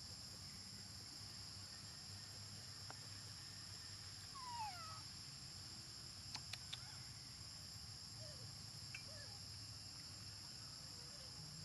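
Steady high-pitched insect chorus, like crickets or cicadas. About four and a half seconds in there is a short falling animal call, and a few light clicks follow about two seconds later.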